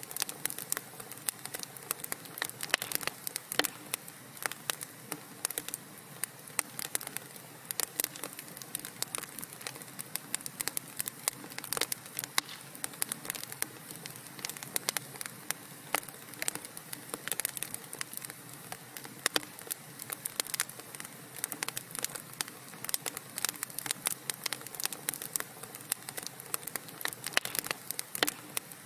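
Wood fire crackling in a fireplace: a dense, irregular run of sharp pops and snaps over a soft steady hiss of burning.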